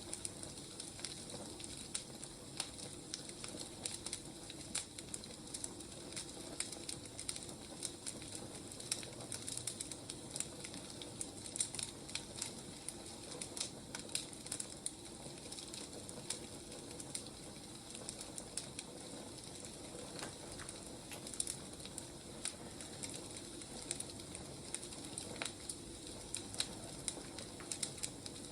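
Firewood burning, crackling with a steady hiss and frequent small, irregular pops.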